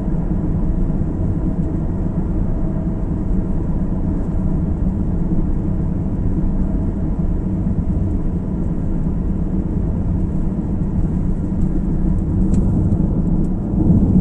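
Steady road and engine noise of a moving car heard from inside the cabin, a low even rumble that grows slightly louder near the end.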